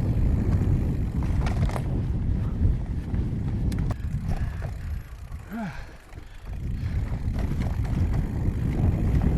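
Mountain bike being ridden on trail: a steady wind rumble on the body-worn recorder with scattered clicks and rattles from the bike. About five seconds in it goes briefly quieter, and a short pitched sound rises and falls during the lull.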